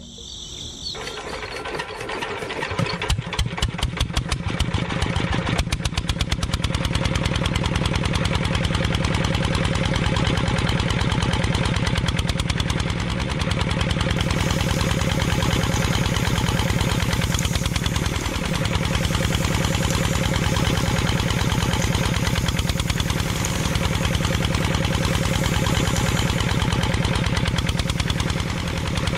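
Single-cylinder diesel engine cranked by hand: it catches about a second in with slow chugs that speed up over the next few seconds, then runs at a steady fast beat while driving a small belt-driven flour mill.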